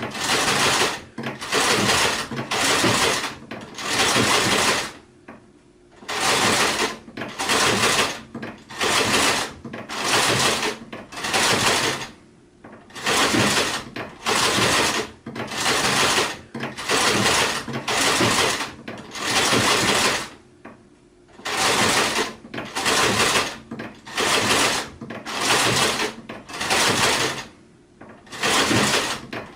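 Sewing machine stitching in short runs of under a second each, stopping and starting about once a second, with a few longer pauses.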